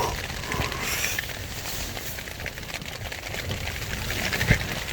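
Rain pattering on a tent's fabric in gale-force wind, with a low rumble and one sharp thump near the end.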